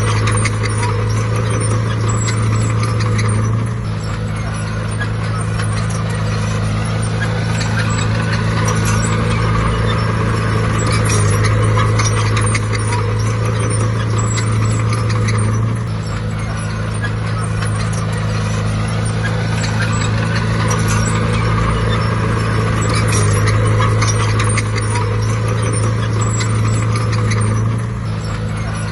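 Crawler bulldozer's heavy diesel engine running under load, its level dropping and swelling again about every twelve seconds, with a continuous fine metallic clatter.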